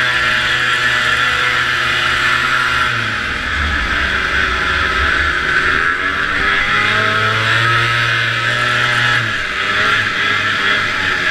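Vintage two-stroke snowmobile engine running hard at racing speed. It holds high revs, easing off and picking back up a couple of times, over a steady hiss.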